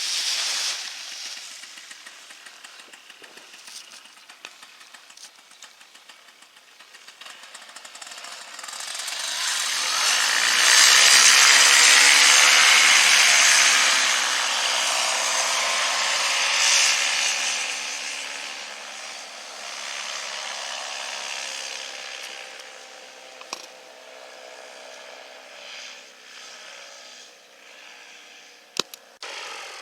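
Wind rushing over the microphone in flight, swelling to a loud buffeting rush for several seconds in the middle and then easing off, with a faint whistling tone under it.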